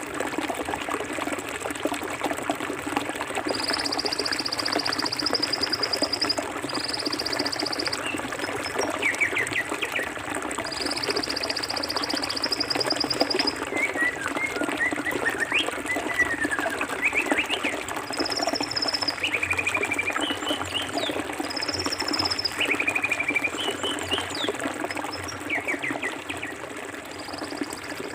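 Forest stream running steadily, with birds calling over it: several high trills of two to three seconds each and many short chirps.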